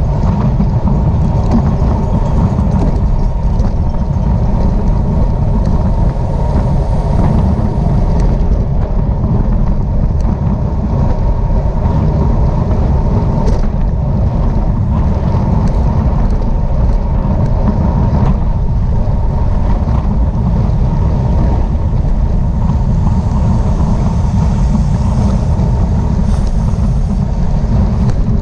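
Steady, heavy wind rush on the camera microphone of a bicycle moving at racing speed, with a faint steady hum underneath.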